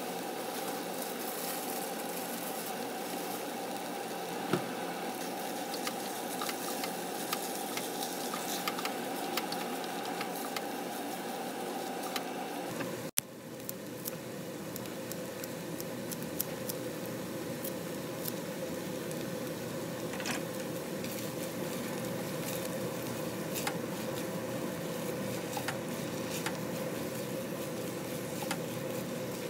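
Kimchi fried rice sizzling and crackling in a nonstick pot as it is stirred and turned with a silicone spatula, with soy sauce reducing in the hot pan. A steady hum runs underneath and drops in pitch after a brief break about halfway through.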